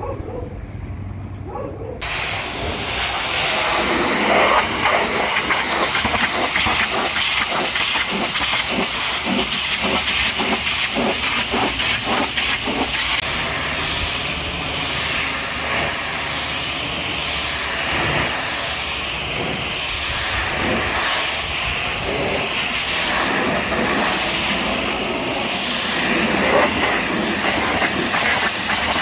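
High-pressure washer jet spraying water, a loud steady hiss that starts suddenly about two seconds in and keeps up, with uneven spattering as the jet moves over the surfaces.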